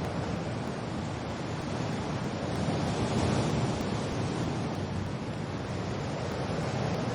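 Wind and rain ambience: a steady rushing noise that swells a few seconds in and eases off again.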